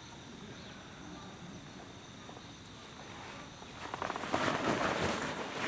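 Steady high-pitched insect chirring outdoors; about four seconds in, a louder patch of crunching, rustling noise begins.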